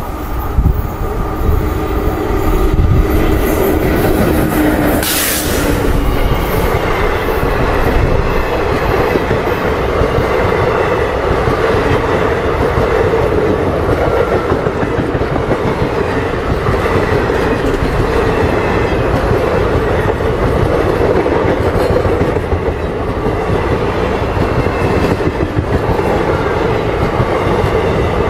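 A passenger train hauled by a WAP4 electric locomotive passing close at speed, with a loud, steady rush of wheels on rail as the coaches roll by. A brief sharp burst comes about five seconds in.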